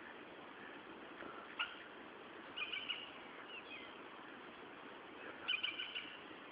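Small birds giving short chirping calls in a few brief groups over a steady faint outdoor hiss.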